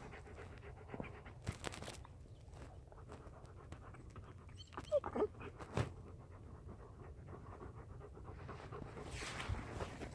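A dog panting rapidly and steadily, with a couple of sharp knocks partway through.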